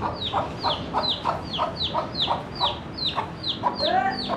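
A hen cackling: a fast, even run of short clucks, about three a second, broken near the end by one longer, drawn-out squawk.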